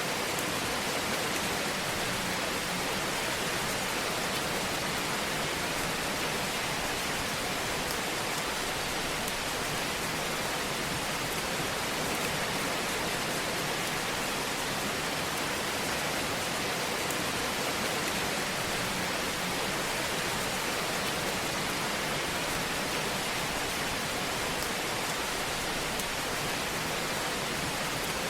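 Fire burning in a fireplace, heard as a steady, even hiss without distinct pops.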